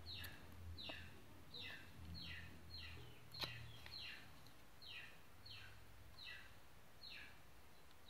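A bird calling over and over: a short chirp falling in pitch, repeated at an even pace about one and a half times a second, about a dozen in a row. A single soft click sounds near the middle.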